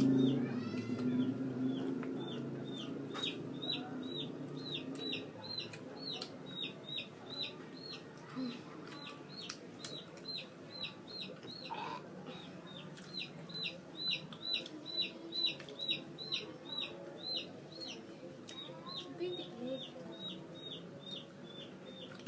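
Baby chicks peeping: a steady string of short, high cheeps that fall in pitch, about two or three a second.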